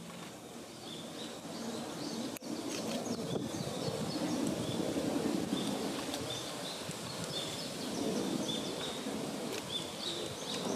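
Woodland ambience: small birds giving short, high chirps over and over, above a low rumbling background that swells in the middle. A single sharp click about two and a half seconds in.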